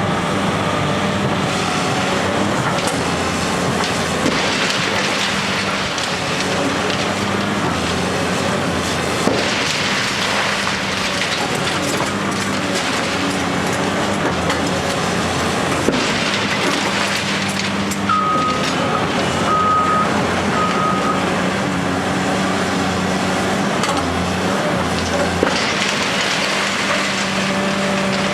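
Diesel engine of heavy demolition machinery running steadily, with a few sharp knocks of concrete being struck and broken. Three short high beeps sound about two-thirds of the way through.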